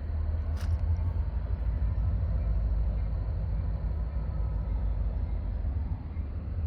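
Low, steady rumble of an EMD GP40-2 diesel locomotive's 16-cylinder two-stroke engine as the engines back the train through the yard, with a single sharp click about half a second in.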